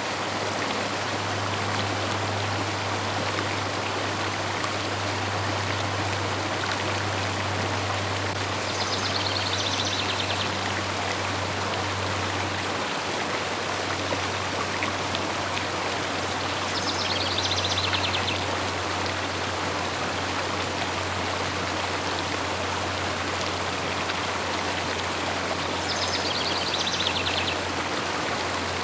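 River water flowing in a steady rush with a low rumble beneath. A bird sings a short, rapidly pulsed trill three times, about every eight seconds.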